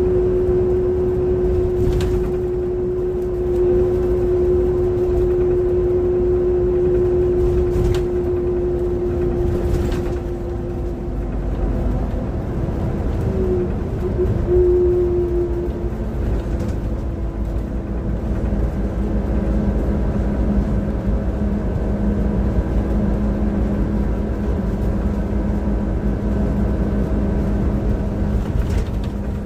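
Transperth bus TP1422's engine running under a deep rumble with a steady whine that wavers about halfway through and then settles at a lower pitch; the engine sound the owner calls bad.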